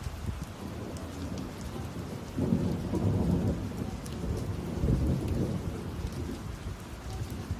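Thunder rumbling over steady rain. The low rumble swells about two and a half seconds in, peaks again near five seconds, then eases while the rain hiss and scattered drop hits carry on.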